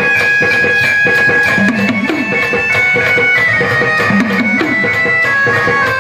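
Gondhal folk music: an organ plays a reedy melody over held notes while sambal drums beat a steady rhythm.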